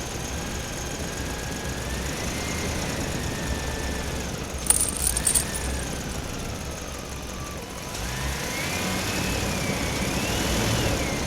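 Mini model tractor's motor running under load with a whine that rises and falls in pitch while it pulls another tractor free. A short burst of clattering clicks comes about five seconds in.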